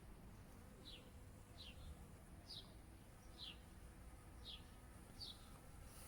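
A bird calling, six short high chirps, each falling in pitch, about one a second, over a faint low rumble.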